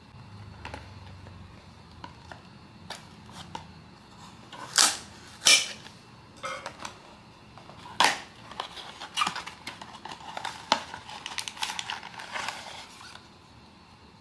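Blind-box packaging being handled: a series of sharp clicks and taps, the loudest a little before five seconds, just after five and around eight seconds. Then comes a stretch of rustling and crinkling that stops about a second before the end.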